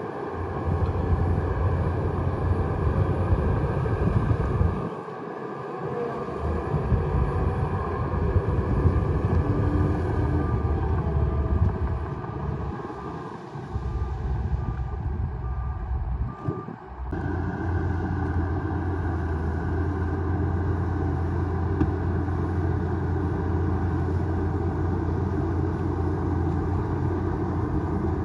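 Bulldozer's diesel engine running steadily while working, its sound dropping briefly a few times. A faint row of evenly spaced beeps sounds about halfway through.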